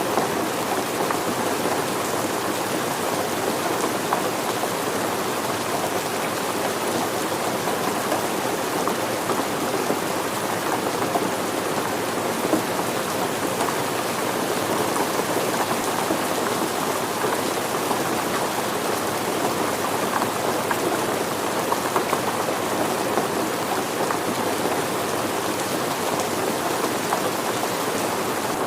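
Steady rain falling on surfaces, an even hiss full of small drop patters, with no change in strength.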